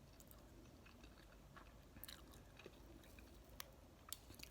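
Faint chewing of noodles, with a few short, soft mouth clicks.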